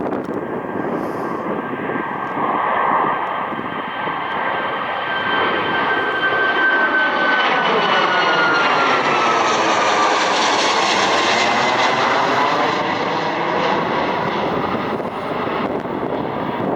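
Jet airliner's turbofan engines at takeoff power as the plane climbs past. A loud, steady rushing noise carries a high whine that slides down in pitch as the aircraft goes by, and it is loudest around the middle.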